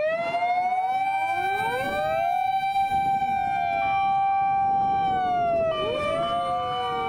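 Several fire engine sirens wailing together at different pitches, each rising quickly to a held tone, then sliding down and starting to rise again near the end.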